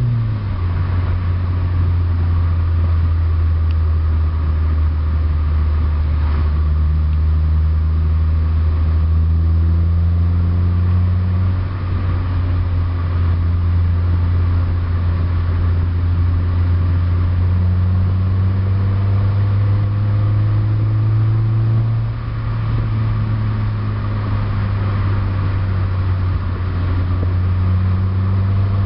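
Exhaust of a 1991 Honda Accord's stock F22A1 2.2-litre four-cylinder engine under way, a steady deep drone heard from the cabin with the windows down. Its pitch climbs slowly and falls back, and the loudness briefly dips about 12 and 22 seconds in.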